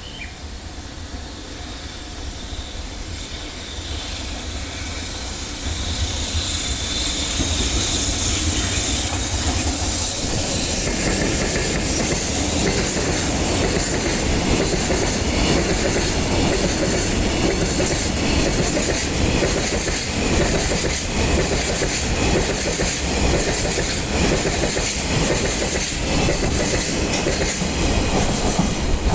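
Freight train passing close by, its wagon wheels clacking in a fast rhythm over the rail joints. It grows louder over the first several seconds as it approaches, then holds steady and loud as the wagons roll past.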